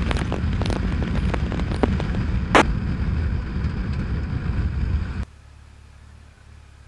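Police scanner with an open channel but no voice: a heavy rumbling hiss with one sharp click, cut off abruptly a little over five seconds in as the squelch closes.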